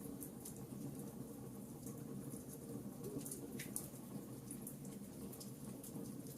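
Wood fire crackling in a fireplace: frequent small, irregular pops and snaps over a steady low rush of flames.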